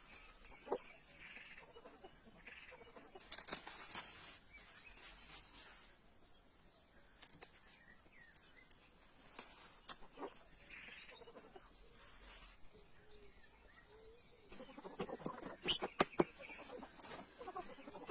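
Domestic chickens clucking, with scattered light knocks and rustles that grow busier near the end.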